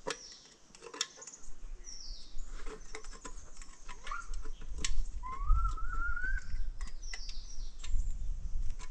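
Birds calling: two short falling high chirps and one longer wavering call that rises in pitch midway, among scattered sharp clicks and knocks over a faint low rumble.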